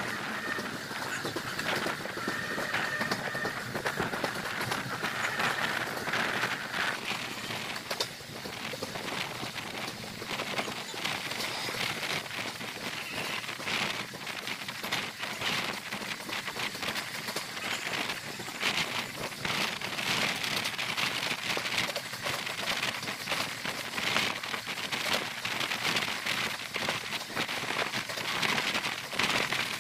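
Running noise of a moving train heard from on board at an open window: a steady rush of wind and rumble with a constant busy clatter of wheels on track. There is a higher hiss for the first several seconds.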